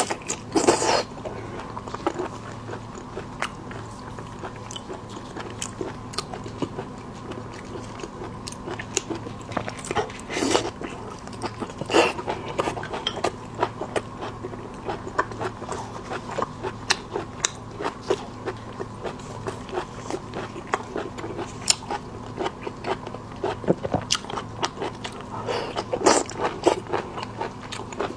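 Close-up eating sounds of shrimp: steady biting and chewing with many small clicks and crunches of shell, and a few louder crunches. A faint steady hum sits underneath.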